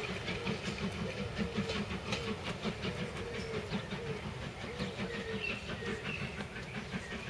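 Steam-hauled train's coaches rolling away over jointed track: a steady low rumble with wheels clicking over the rail joints, slowly fading.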